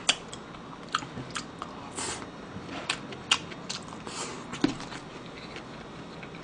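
Close-up eating sounds: chewing and biting of food, with scattered light clicks of metal chopsticks against plastic food containers.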